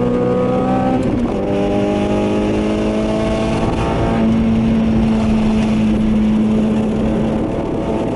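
Cabin sound of a 2008 Honda Civic Type R's four-cylinder i-VTEC engine, fitted with a 4-2-1 exhaust manifold and 2.5-inch exhaust, revving up under hard acceleration. There is a quick upshift just over a second in, and the engine pulls up through the revs again for about three seconds. Then the rising engine note falls away as the car comes off the throttle, leaving a steady low drone with road noise.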